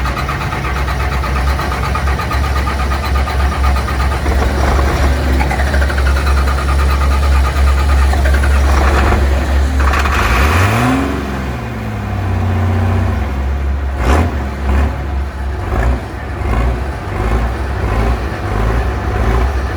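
An engine running steadily with a deep drone, its pitch rising and falling about ten seconds in, then running more unevenly with a few sharp clicks.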